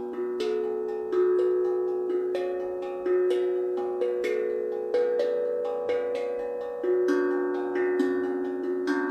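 A slow melody on a struck, bell-like pitched instrument: a new note or pair of notes about once a second, each ringing on into the next, with lighter taps in between.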